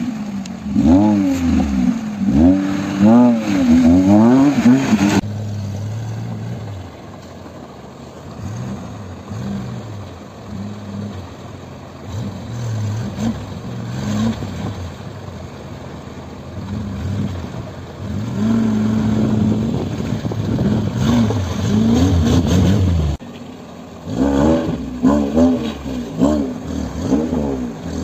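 Maruti Suzuki Gypsy 4x4 engines revving up and down repeatedly as the vehicles drive through a rocky stream. Several clips are joined with abrupt cuts; the revving is loudest at the start and again in the last few seconds, with a quieter stretch between.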